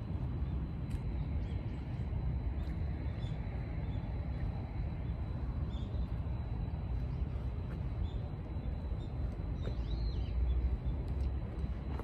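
Small birds chirping now and then, with a short cluster of calls about ten seconds in, over a steady low rumble.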